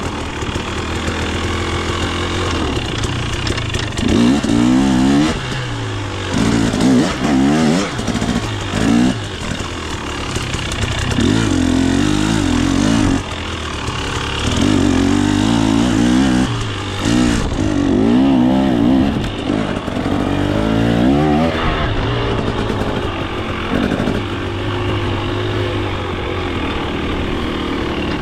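Single-cylinder two-stroke engine of a KTM 250 XC dirt bike, blipped in short throttle bursts every second or two, each rising and falling in pitch, settling into a steadier run near the end.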